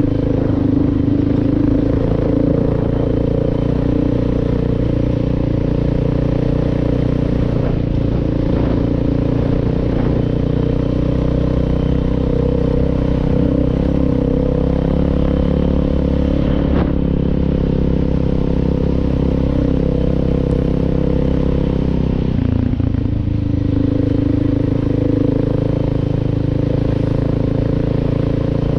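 Suzuki DR650 single-cylinder four-stroke engine running steadily while the motorcycle is ridden. The engine note shifts about three quarters of the way through.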